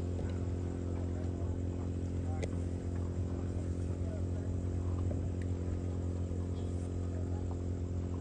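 A steady low machine hum with even, unchanging pitch.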